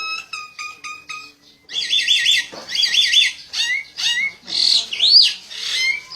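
A bird calling: first a quick run of short chirps, about five a second, then after a brief pause loud bursts of rapid, high chattering notes. About five seconds in comes one whistle that rises and falls.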